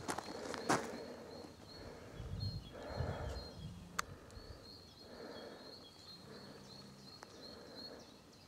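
Faint bird song: a long run of high, evenly repeated short notes. A few soft scuffs and a sharp click about four seconds in.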